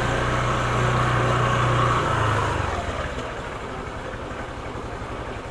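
A motor vehicle's engine running steadily, then fading away a little over halfway through, leaving a lower rumble of traffic.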